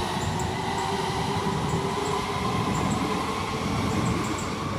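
Southeastern Class 395 Javelin electric multiple unit moving at the platform: a steady low rumble of the train with thin, steady electric whine tones above it, one of them fading out about three seconds in.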